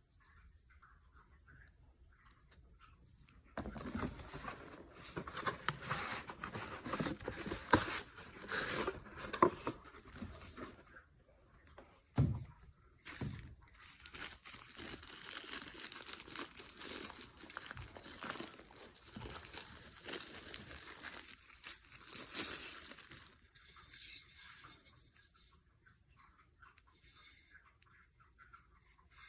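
Irregular crinkling and rustling, like plastic or paper packaging being handled, with scattered clicks and a low knock about twelve seconds in. It starts a few seconds in and dies away about two-thirds of the way through.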